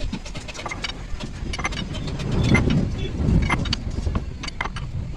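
Workshop noise: many short metallic clicks and clinks over a low vehicle rumble that swells about halfway through.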